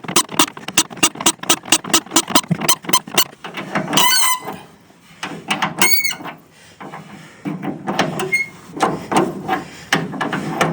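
A seized, rusted gearbox bolt being worked loose: a fast run of sharp clicks, about five a second, then high squeals of metal on metal as the bolt turns, twice. Scattered clicks and knocks follow.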